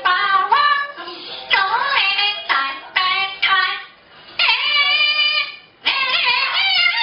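A parrot singing, mimicking a Chinese song in a high, child-like voice: short sung phrases with sliding pitch, broken by brief pauses about four and six seconds in.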